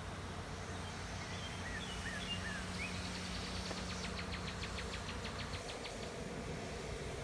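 Honey bee swarm buzzing as a steady low hum around the hives. Birds chirp a few short notes, and about three seconds in a bird gives a rapid trill of evenly spaced notes lasting about two seconds.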